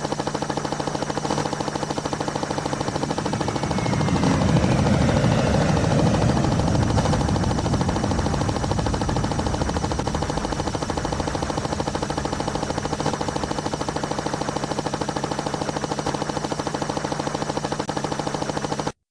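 Helicopter rotor chopping rapidly over a steady engine whine. It swells louder a few seconds in, then cuts off suddenly near the end.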